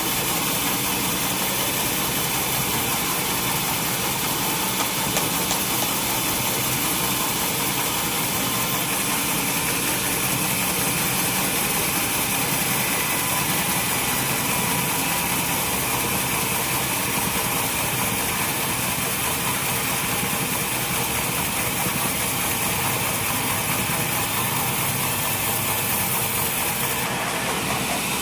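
Sawmill machinery running with a steady mechanical drone that does not change in level.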